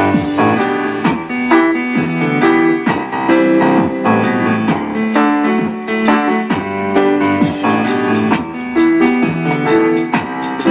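Keyboard music with a piano or electric-piano sound: chords and quick runs of notes, with sharp struck accents throughout.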